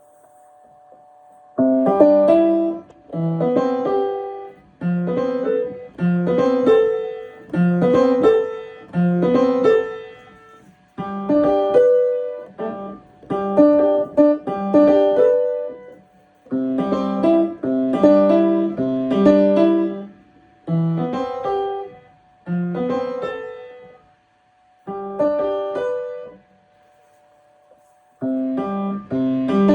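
Piano practice: chords and short runs played in phrases of a second or two, each broken off by a brief pause. The playing starts about a second and a half in and stops for a few seconds near the end before resuming.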